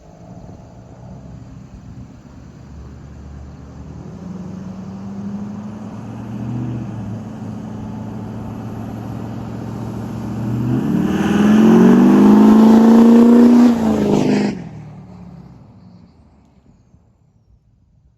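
LBZ Duramax 6.6-litre V8 turbo-diesel with a 5-inch straight pipe and 10-inch tip, running and growing gradually louder. It then accelerates hard for about three seconds with a rising pitch, before dropping away abruptly and fading out.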